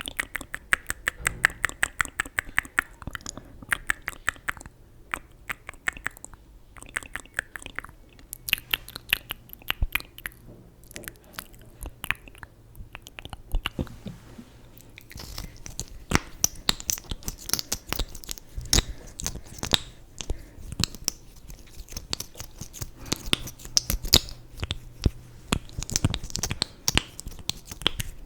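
Close-miked ASMR trigger sounds during a makeup routine: a dense, irregular run of small crackly clicks and taps, closest to mouth or chewing-like sounds, with no speech.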